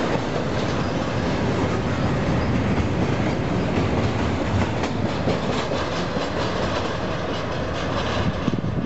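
Double-stack intermodal freight cars rolling past at close range: steel wheels rumbling on the rails with clickety-clack, clicking over the rail joints as the last cars go by, fading slightly near the end as the train clears.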